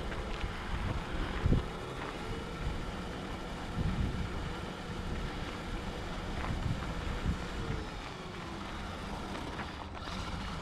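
Wind buffeting the microphone: an uneven low rumble with a few louder thumps, the strongest about a second and a half in.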